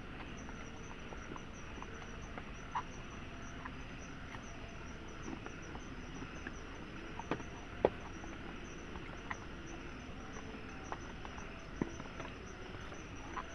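A steady soft hiss with a thin high steady tone running through it, and scattered, irregular ticks and taps. The sharpest tap comes about eight seconds in.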